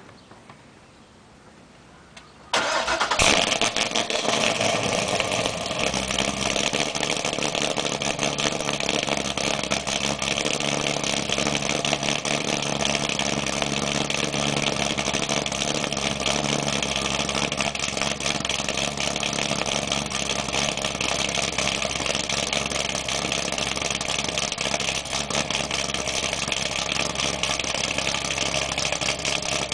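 2008 Corvette V8 with an aftermarket G6X3 camshaft and long-tube headers, cold-starting. It is quiet for about two and a half seconds, then the engine catches with a loud flare and settles into a steady idle.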